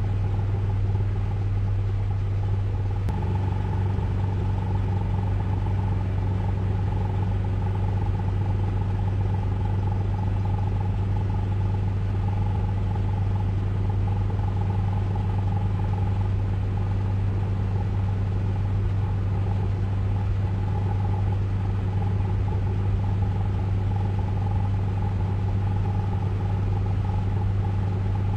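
Ryko Velvet Touch 2000 soft-touch car wash running: a steady low hum and rumble with a constant higher whine over it.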